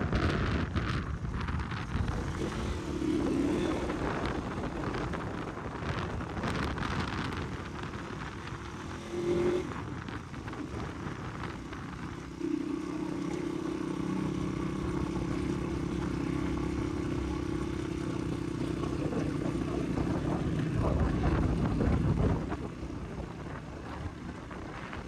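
Dirt-bike engine running as the bike is ridden, with wind buffeting the microphone. About halfway through, the engine settles into a steady drone for around ten seconds, then falls away.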